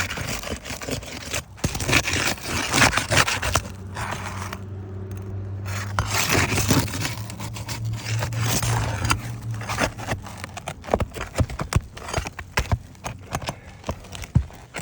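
Asphalt roof shingle being pried loose from its sealant strip: scraping, then many sharp crackling clicks as the seal bond tears free. A low steady hum runs under the middle of it.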